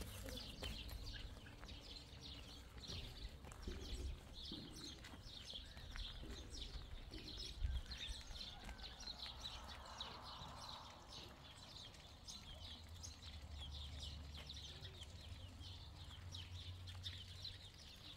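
Small birds chirping rapidly and continuously, faint, over a low steady hum.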